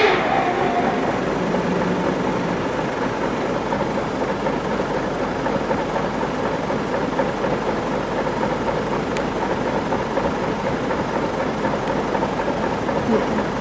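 A vehicle engine idling steadily, with an elephant's trumpet call tailing off right at the start.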